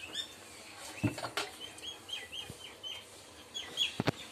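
Small birds chirping in a run of short, quick repeated notes, with a few sharp knocks about a second in and again near the end.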